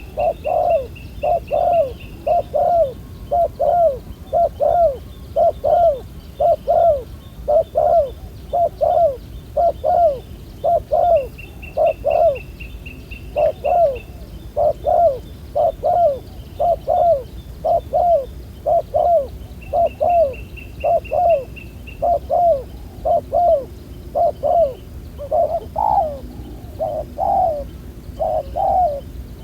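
Spotted doves cooing over and over, a steady run of soft, rounded coo notes. A short, fast, high trill from another bird breaks in three times.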